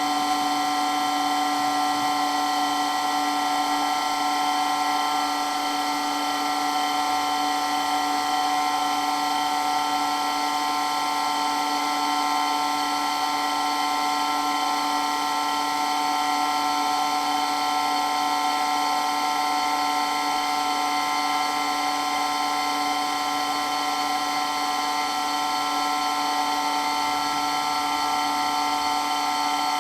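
Water pump running loud and steady, a whine of several fixed pitches over a constant hiss, with no change in speed.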